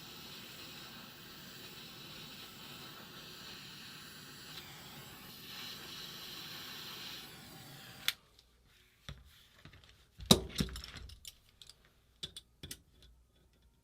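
A steady hiss that cuts off abruptly about eight seconds in, followed by scattered metallic clicks and knocks, the loudest about ten seconds in: tools and small metal parts being handled on a workbench.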